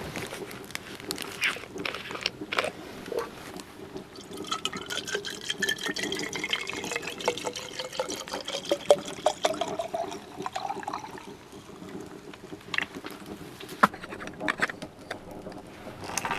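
Liquid poured from a bottle into a small jar to steep herbs as infused liquor, the pitch of the pour rising steadily for several seconds as the jar fills. Light clicks and knocks of handling the bottle and jar come before and after the pour.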